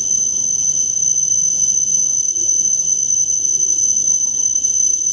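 E5 series Shinkansen train rolling slowly along the platform to a stop: a low, even rumble under a steady high-pitched whine with a fainter tone an octave below.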